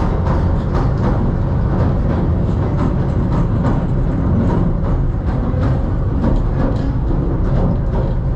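Southend Pier Railway train running along the pier, heard from inside the carriage: a steady low rumble with frequent quick clicks of the wheels on the track.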